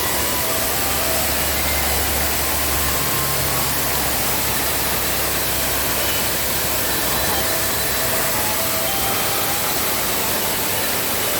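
Waterfall in heavy rainy-season flood, a loud, steady rush of white water.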